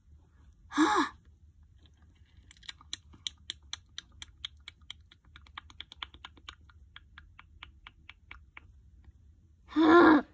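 A short vocal sound from a child, then a run of rapid light clicks, about four or five a second, that thin out and fade. The run ends with a loud, drawn-out vocal cry near the end.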